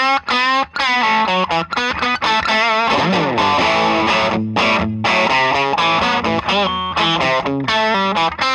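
Electric guitar played through a Songbird Redtail amplifier turned up into overdrive: a distorted lead line with string bends, wide vibrato and a slide down and back up about three seconds in, broken by a few brief pauses between phrases.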